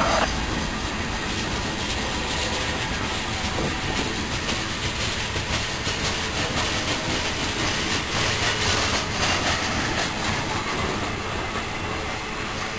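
Freight cars rolling past close by: steel wheels rumbling and clacking over the rail joints in a steady run of wheel noise. A brief screech sounds at the very start.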